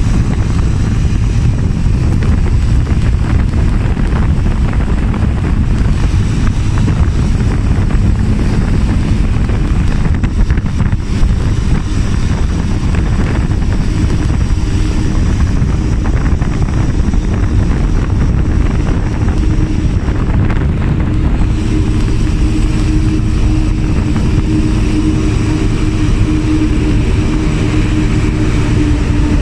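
Motorbike on the move: steady low rumble of engine and wind rushing over the microphone. A droning engine tone comes in about halfway through and grows louder near the end.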